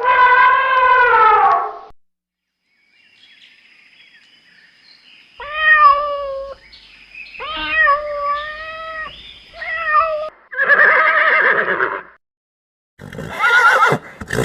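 A series of short animal calls separated by pauses: a falling cry at the start, then several pitched cries about halfway through and more calls near the end.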